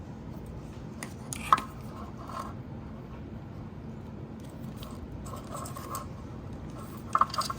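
Small handling sounds of hand tools and wiring: a sharp click about a second and a half in, light scraping, and a few more clicks near the end, over a steady low background hum.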